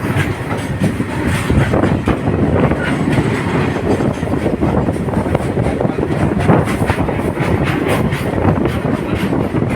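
Freight train wagons rolling on the rails, wheels clattering and clanking over the rail joints in an irregular stream.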